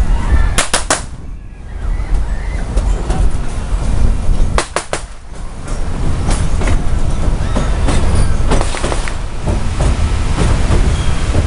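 Narrow-gauge train rolling along, heard from a passenger coach: a steady low rumble of wheels on track. A sharp triple click comes about a second in and again near five seconds, as the wheels cross rail joints.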